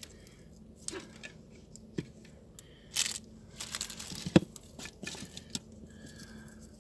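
Rustling and small clicks of craft materials being handled on a table, with a sharper click about four and a half seconds in.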